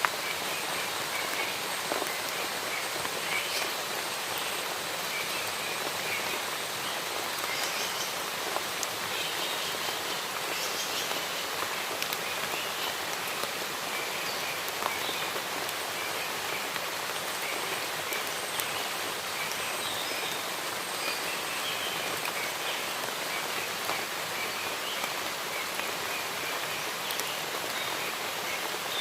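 Steady rain falling, with small birds chirping in short calls throughout.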